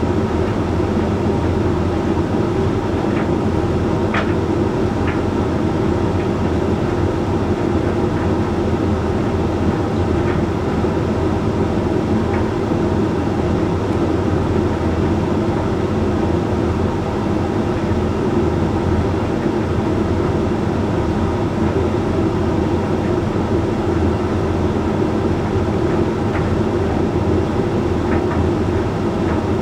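Hoover Link X Care condenser tumble dryer running mid-cycle on a Whites load: a steady rumbling hum from the turning drum and fan. A few faint ticks come about three to five seconds in.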